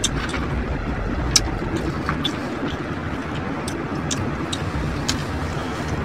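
Chewing a taco with cabbage: a scatter of sharp crunches and mouth clicks, the loudest about a second and a half in, over a steady low background hum.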